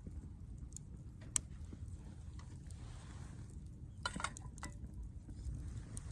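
Wood fire burning in a fire pit stand, with scattered sharp crackles and pops over a low steady rumble; one louder pop comes about a second and a half in, and a quick cluster of pops a little after the middle.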